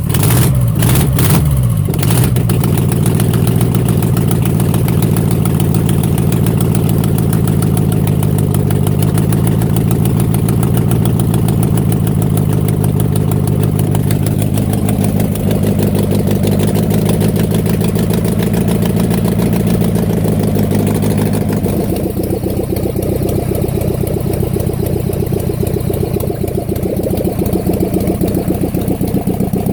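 Air-cooled MeMZ V4 engine from a ZAZ-968M Zaporozhets running at idle after some ten years of standing unused. Its note shifts about halfway through and again a few seconds later.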